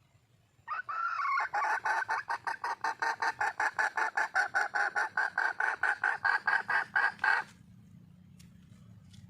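Wild hen (female red junglefowl) calling to attract a male: a short opening note, then a long, fast, even run of clucks at about seven a second that stops abruptly after about six seconds.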